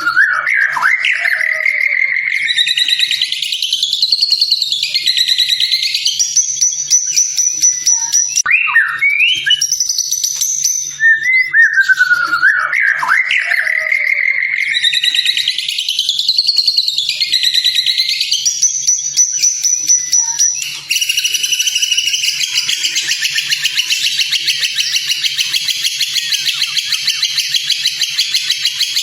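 White-rumped shama (murai batu) song: loud, clear whistled phrases that glide up and down, the same sequence heard twice. About two-thirds of the way through it changes to a dense, rapid buzzing trill.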